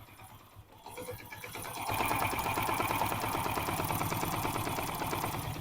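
Hero Splendor iSmart 110's single-cylinder four-stroke engine running with a fast, even beat, growing louder about a second and a half in and then holding steady. It sounds smooth, with no timing-chain rattle, now that a new timing chain has been fitted.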